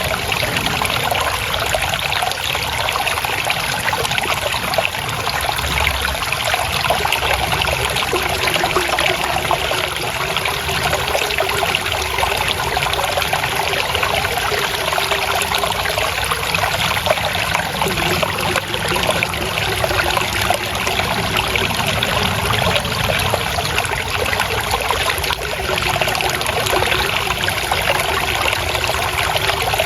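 Water trickling and flowing steadily over stones, a continuous babbling stream with no break.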